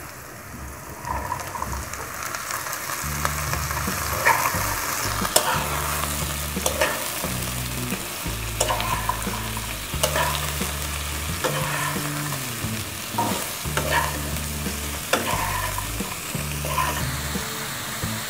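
Potato and carrot sticks and chopped onion sizzling in hot oil in a frying pan, stirred with a metal spatula that scrapes and taps the pan about once a second.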